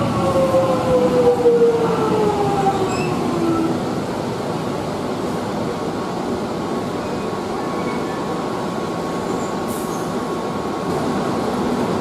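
Electric suburban train pulling into an underground platform: a whine that falls steadily in pitch over the first four seconds as it slows, then a steady rumble with a faint hum as it comes to a stop.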